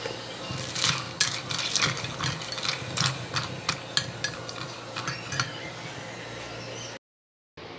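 A spoon clinking repeatedly against a cup while stirring: a dozen or so sharp, uneven clinks that stop about five and a half seconds in.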